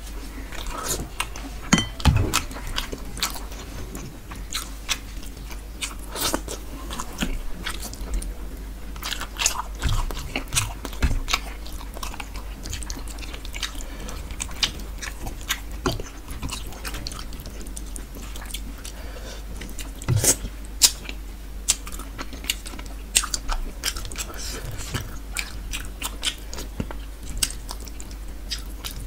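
Close-up wet chewing and lip-smacking of a person eating rohu fish curry and rice by hand, with many irregular sharp mouth clicks.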